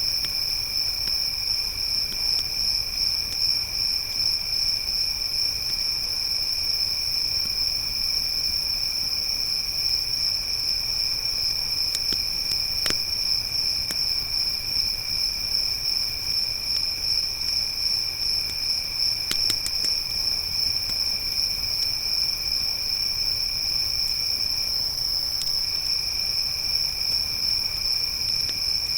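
Crickets trilling continuously at two pitches, a loud high one and a lower one that breaks off briefly about 25 seconds in, with a few faint crackles from a campfire.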